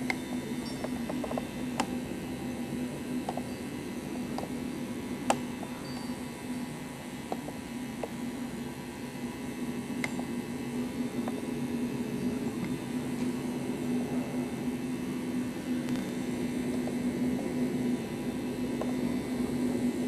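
A steady, even hum with a faint background haze, broken by a few light clicks.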